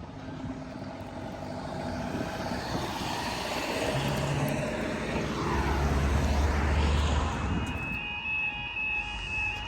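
Diesel freight train passing the level crossing: a rumbling engine that builds, peaks and passes about six to seven seconds in, its pitch dropping as it goes by. Near the end the level crossing's warbling alarm starts up.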